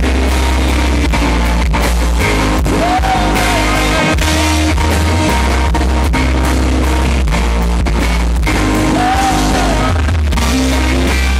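Loud live band music: drums with a heavy bass line and electric guitar, with a wavering melody line twice in the middle.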